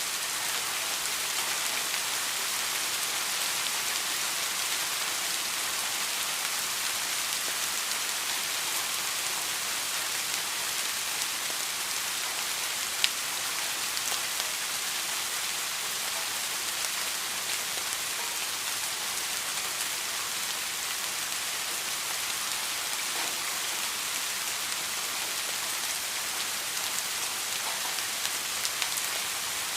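Steady rain falling, an even hiss of many drops on a surface, with a single sharp drop tap about halfway through and a few small taps near the end.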